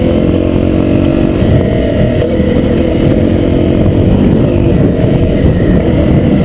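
Honda CRF250L's single-cylinder four-stroke engine running as the bike is ridden. The engine note holds steady for about the first second and a half, then wavers with the throttle.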